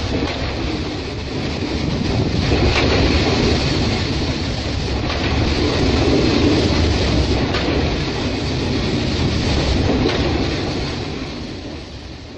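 Loaded coal wagons of a freight train rolling past with a steady rumble and a few wheel clacks, mixed with the hiss of overhead water sprays showering the coal. The sound fades away near the end.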